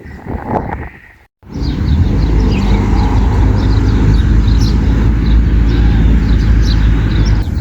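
Small birds chirping repeatedly over a steady low rumble, which starts after a brief cut-out about a second in.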